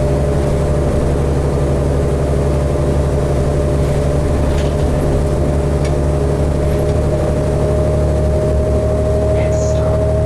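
Interior drone of a 2012 New Flyer D60LFR articulated diesel bus running steadily under way, with a steady whine that rises slightly in pitch near the end.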